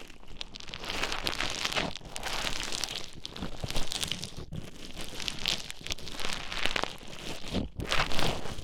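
Play Foam being squished and worked, a dense wet crackling of its tiny foam beads that comes in uneven waves, dropping out briefly about four and a half seconds in and again near the end.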